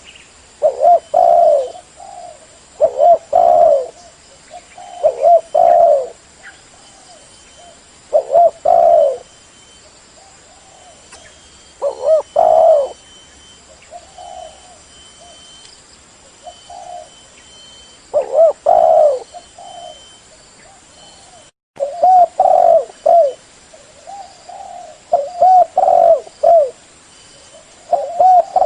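Spotted dove cooing: repeated phrases of a few mellow coo notes, each phrase about a second long and coming every couple of seconds. There is a quieter stretch of softer coos in the middle and a brief dropout a little past two-thirds of the way through, after which the calling resumes.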